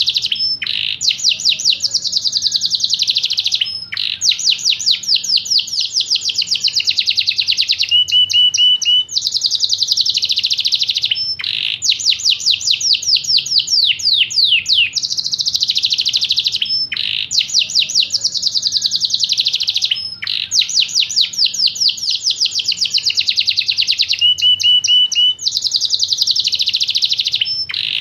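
A Yorkshire canary singing a long, continuous song: fast trills of rapid, high, down-sweeping notes, with brief breaks about every eight seconds before the next run of trills.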